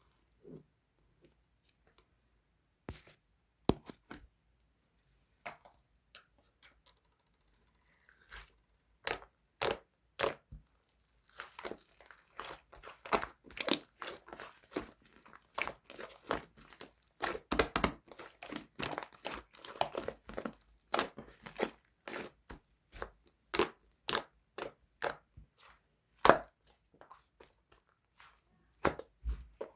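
Slime being squeezed, stretched and folded by hand, making sharp, irregular crackles and pops. They are sparse at first and come thick and fast from about nine seconds in.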